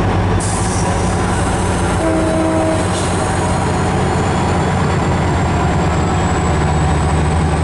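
MARC diesel locomotive running with a steady low drone, a hiss joining about half a second in and a short single-pitched tone about two seconds in.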